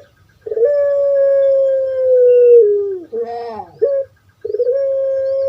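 Puter pelung dove (Streptopelia risoria) cooing: a long drawn-out note held about two seconds that drops in pitch at its end, a short rough gurgling phrase, then a second long note beginning near the end.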